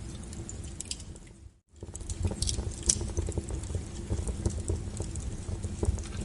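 A wood fire crackling, with many sharp pops and snaps over a low steady rumble. About a second and a half in, the sound briefly fades to near silence, then comes back.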